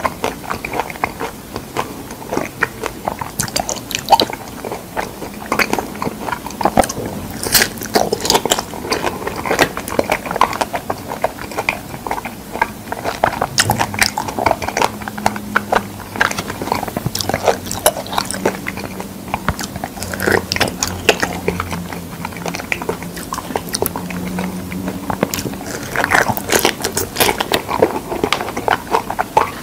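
Close-miked chewing of ripe fresh figs: soft wet fruit mashed in the mouth with many small, irregular wet smacks and clicks.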